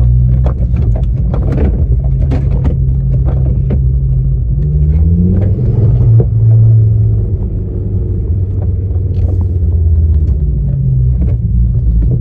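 Ford Focus ST225's turbocharged five-cylinder engine driving, heard from inside the cabin, with light rattles and ticks from the interior. The engine note rises about four seconds in, then falls back to a lower steady note.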